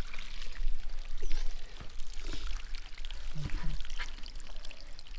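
Water pouring and splashing from an irrigation pipe into a paddy field, with a low rumble underneath and a brief voice about three and a half seconds in.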